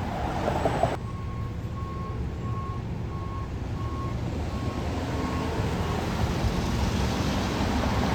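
Fire truck reversing, its diesel engine running low and steady while its backup alarm beeps a little under twice a second, fading out after about six seconds. A louder, noisier stretch of sound cuts off abruptly about a second in.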